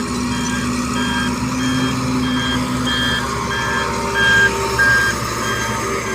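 A heavy vehicle's reversing alarm beeping steadily about one and a half times a second, over the steady hum of its engine running.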